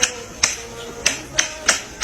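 A run of sharp, snap-like clicks, about six of them, unevenly spaced, over background music.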